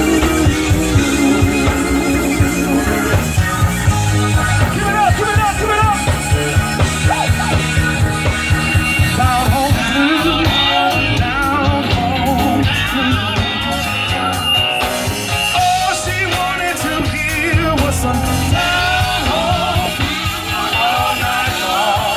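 Live band playing a blues number: a steady drum and bass groove with a wavering lead melody over it.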